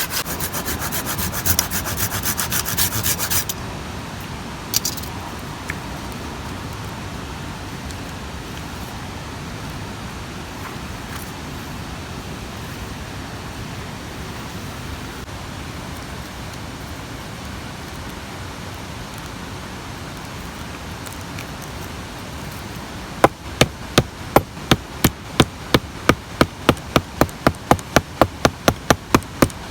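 Hand saw cutting through wood for the first few seconds, then steady outdoor background noise, then from about two-thirds of the way in a run of quick, evenly spaced sharp knocks on wood, about three a second, like hammering or tapping.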